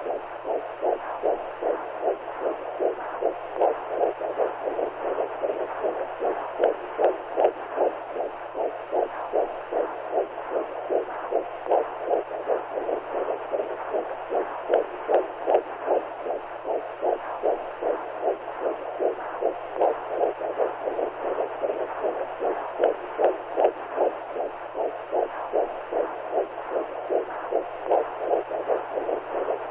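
Womb sound: a rhythmic, whooshing heartbeat-like pulse, about two beats a second, over a constant hiss, with a faint steady low hum beneath.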